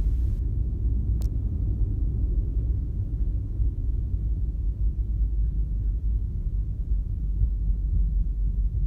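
Low, muffled rumble in the cabin of an Airbus A320 during landing, with one faint click about a second in.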